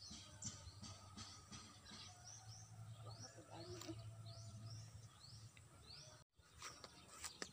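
Faint open-air ambience with a bird calling: a short, high chirp rising in pitch, repeated about twice a second. The sound cuts out for an instant about six seconds in.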